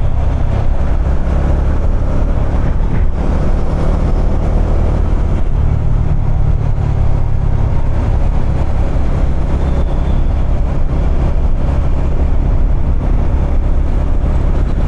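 Bajaj Dominar 250's single-cylinder engine and exhaust running steadily under way in city traffic, a loud, even low rumble.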